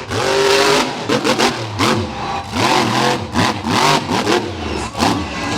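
Monster truck engine revved hard again and again, its pitch climbing and dropping several times in quick bursts.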